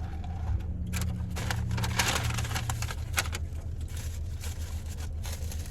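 Rustling, crackling and light clicks from something being handled, over the steady low hum of a car cabin with the engine running. The handling noise starts about a second in and dies away near the end.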